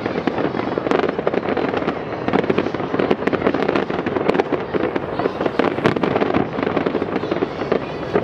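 Aerial fireworks bursting in quick succession: a dense, unbroken run of pops, bangs and crackles with no pauses.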